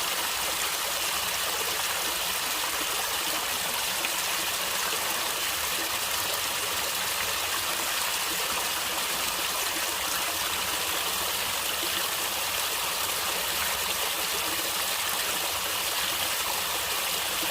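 Stream water flowing and gurgling steadily over rocks, a constant rushing hiss with no breaks.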